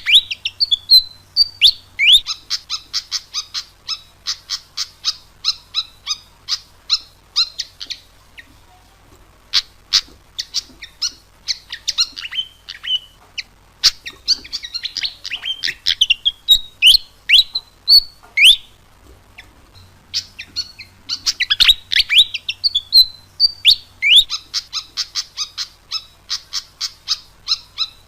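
Fantail (sikatan kipas) singing: rapid runs of sharp high chips and short whistled notes, some sliding up or down, in phrases broken by two short pauses.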